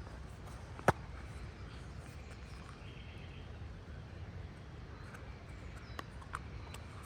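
Outdoor ambience by wild water: a steady low rumble with faint bird chirps, and one sharp click about a second in.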